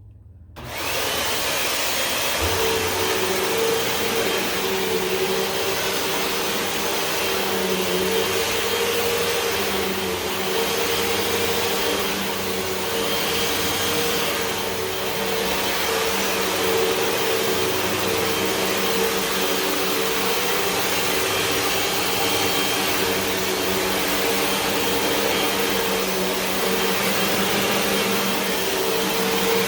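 Hoover WindTunnel 2 Whole House Rewind upright vacuum cleaner running steadily while vacuuming, a steady motor hum with a faint high whine over it. It comes up from near silence within the first second.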